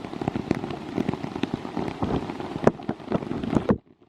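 Rain pattering heavily on and around the microphone, with many separate drop strikes. It cuts out suddenly near the end.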